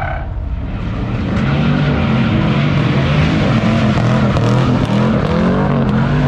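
Chevrolet Camaro's engine revving up and down over and over as the car does donuts, with its rear tyres spinning on the asphalt.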